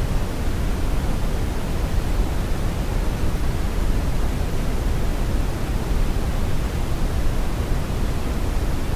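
Steady, even brown noise: a deep rumbling hiss, strongest in the bass and thinning toward the top, with no changes or events.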